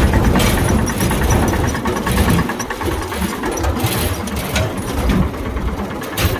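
Tractor engine running steadily with a dense low rumble.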